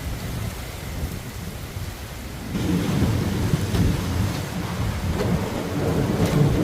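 Thunder rumbling over steady rain. About two and a half seconds in, the rumble suddenly grows louder and keeps rolling.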